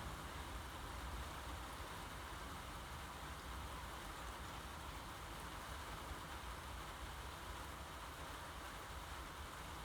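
Steady rain falling, an even hiss with no breaks, over a low steady rumble.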